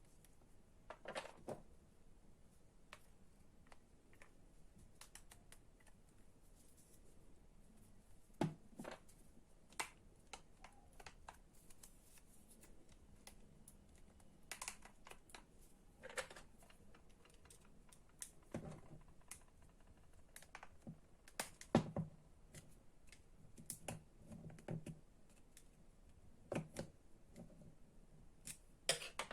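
Scattered clicks and light knocks of small parts and tools being handled while an electric string trimmer's motor is taken apart, with a few louder knocks about a third of the way in and again past the middle.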